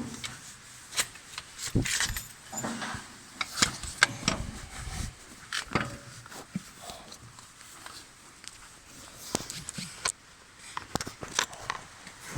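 Irregular metal clinks and knocks as a PTO shaft's yoke is worked and slid onto a tractor's splined PTO stub, with a few heavier knocks around the middle.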